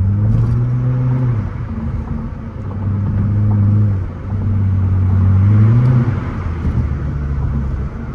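Straight-piped Nissan Altima exhaust while driving, the engine note rising twice as the gas is pumped and dropping sharply each time the throttle is let off.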